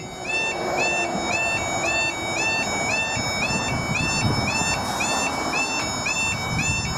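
Level crossing warning alarm sounding a continuous two-tone yodel, stepping between a high and a lower pitch about two to three times a second. It is the warning that the crossing is closing for an approaching train.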